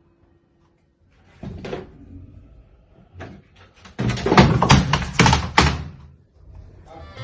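Near silence, then a few scattered knocks and thumps, followed by a loud, dense clatter of knocks lasting about two seconds.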